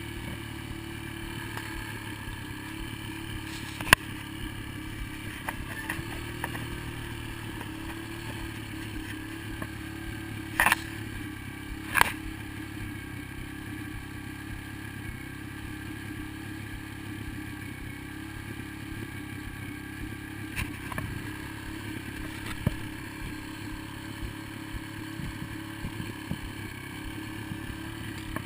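Dirt bike engine idling steadily, with a sharp knock about four seconds in and two louder clacks near the middle.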